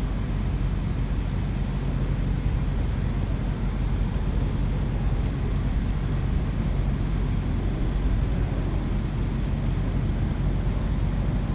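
Steady low rumble of background noise, unchanging throughout.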